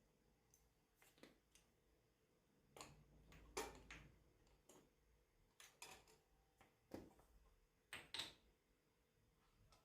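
Faint, scattered light clicks and knocks, about a dozen, the loudest a few seconds in and near the end, over a faint steady hum of room tone.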